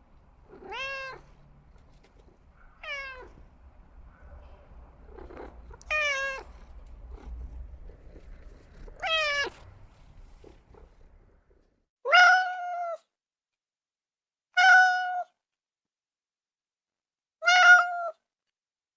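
Domestic cat meowing repeatedly. First come four drawn-out meows that fall in pitch, about three seconds apart, over a low rumble. Then, after a break, come three shorter meows that hold a steady, lower pitch.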